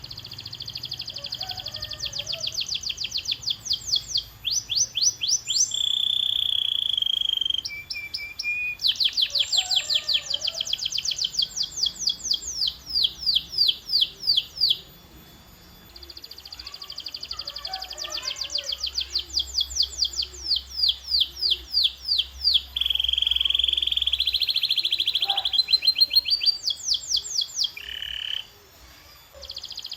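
Canary singing a long song of rapid trills: fast runs of repeated sweeping notes alternating with lower, steadier rolls. The song breaks off briefly about halfway through and again near the end.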